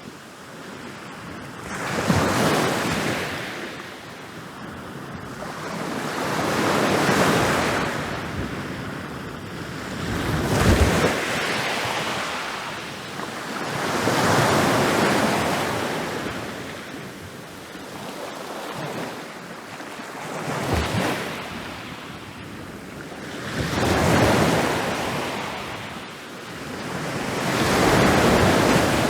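Ocean waves breaking and rolling onto a beach, about seven in a row, each a swell of surf noise that builds, crashes and washes back over a few seconds.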